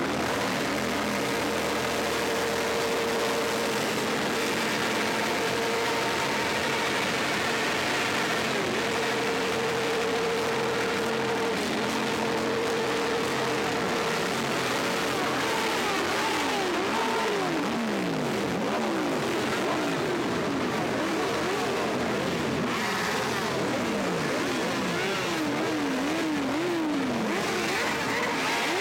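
Several motorcycle engines running and being revved, their pitch rising and falling again and again, more often in the second half.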